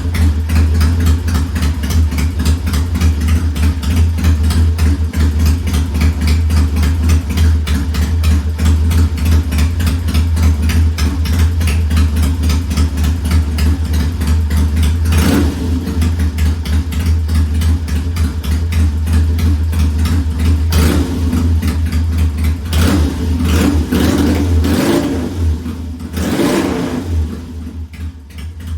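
1969 Triumph T100's 500 cc parallel-twin engine idling steadily as it warms up after a cold start, with several quick throttle blips in the second half. It is quieter near the end. It runs well enough for the owner to declare the bike ready for a test ride.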